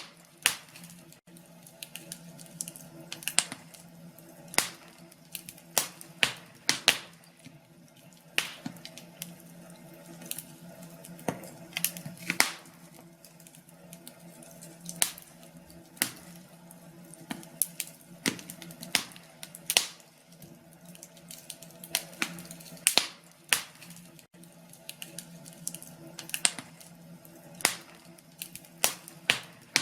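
Wood fire crackling in a fireplace: irregular sharp pops and snaps, one or two a second, over a steady low hum.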